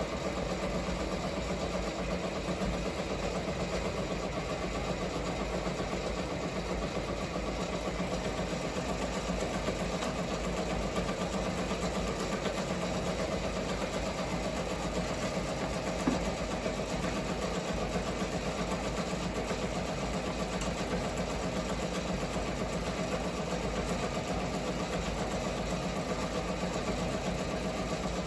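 Multi-needle embroidery machines stitching, a steady fast mechanical clatter with one sharper click about sixteen seconds in. One machine runs loud with a smacking noise whose cause the technician can't place, though it isn't stopping the machine or spoiling the stitching.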